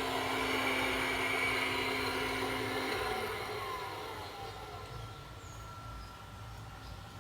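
Fisher-Price toy vacuum cleaner's electronic vacuum-motor sound effect: a steady whooshing hum with a low tone that stops about three seconds in, then the whoosh fades away.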